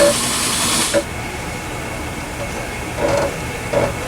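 A steady high hiss, like escaping air, cuts off suddenly about a second in. Then come light metallic clicks and two clinks of hand tools on the rear suspension links, twice near the end.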